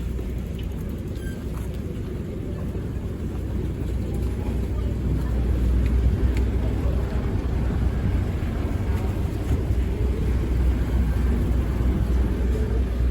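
Cross-river ferry's engine running: a steady low rumble that grows louder from about four seconds in.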